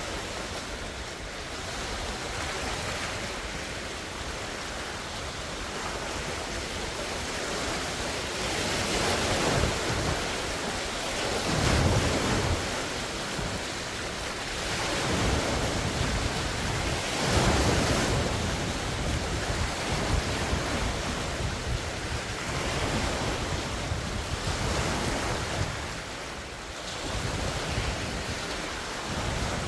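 Large wind-driven waves on a lake washing ashore, a steady rush of surf that swells into louder breaking surges every few seconds, with strong wind buffeting the microphone.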